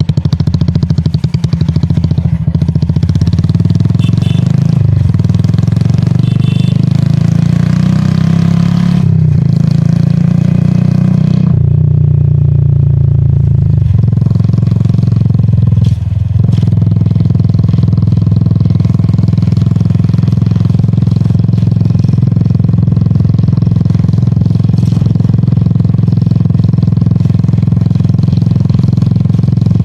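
Royal Enfield Classic 350's single-cylinder engine and exhaust running under way on the road. The engine note changes several times over the first sixteen seconds, with a short drop in level about sixteen seconds in, then holds steady.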